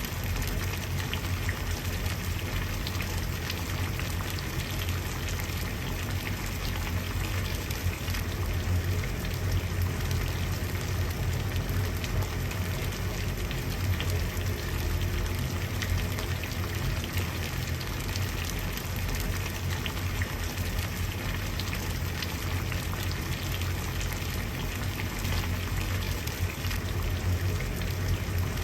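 Water at a steady boil, with many small bubbles popping and crackling continuously over a low steady rumble.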